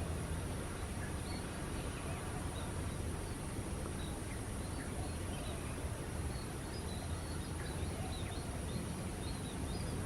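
Small birds chirping, many short high calls scattered and overlapping, busier in the second half, over a steady low background rumble.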